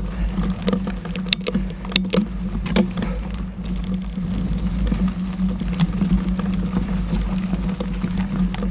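Mountain bike ridden along a trail: a steady low rumble of wind and tyre noise, with a few sharp rattling knocks from the bike over bumps, three of them close together between one and three seconds in.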